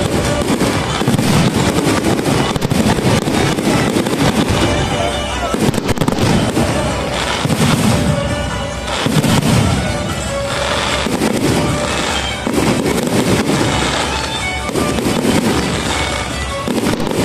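Fireworks display: aerial shells bursting in a continuous run of bangs and dense crackling, swelling and easing in waves.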